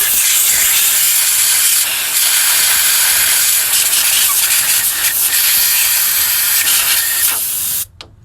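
Compressed-air blow gun hissing steadily as it blows water out of an engine's wet spark plug wells. It cuts off sharply near the end.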